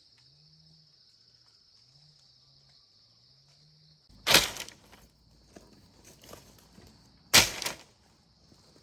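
Two loud, sharp bangs about three seconds apart, each dying away quickly, over a steady high insect-like drone.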